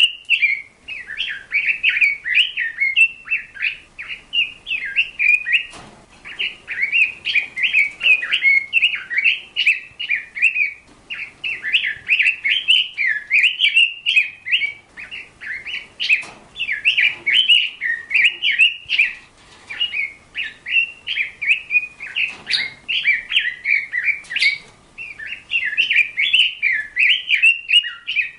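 A bird singing a fast, continuous warbling chatter of chirps, broken by short pauses every few seconds, with a few faint taps.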